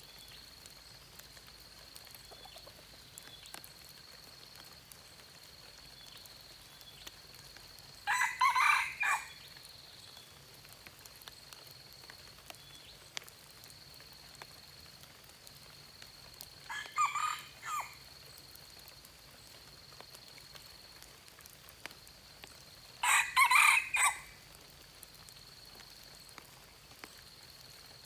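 Red junglefowl rooster crowing three times, each crow short and clipped, about a second long and several seconds apart, over a steady high-pitched whine.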